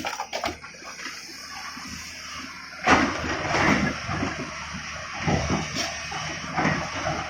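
Stone clattering and rumbling as a TATA Hitachi 200 excavator loads it into a truck, over a low engine hum. A sudden loud crash comes about three seconds in.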